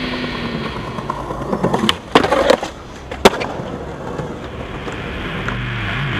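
Skateboard wheels rolling on pavement, with a cluster of hard board clacks and impacts about two seconds in and one sharp clack of the board just over three seconds in. Music fades back in near the end.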